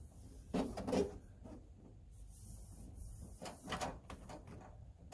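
Foil-backed sound deadener sheet being handled and pressed down by hand. There are two short bursts of crinkling and rubbing, about half a second in and again about three and a half seconds in, with a fainter hiss between them.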